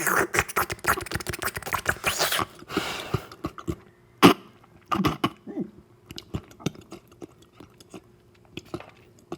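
Close-miked eating sounds of raw egg soup: a long noisy slurp for the first two and a half seconds, then wet chewing and mouth clicks, with one sharp loud click about four seconds in, thinning out toward the end.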